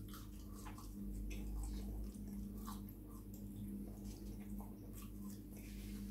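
Faint chewing of thick-cut chip-shop chips, with small soft mouth clicks scattered through, over a steady low hum.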